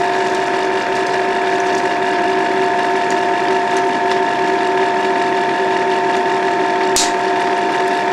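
Bell & Howell 8mm film projector running in forward projection: a steady motor whine with mechanical clatter from the drive and film transport. There is a single sharp click about seven seconds in.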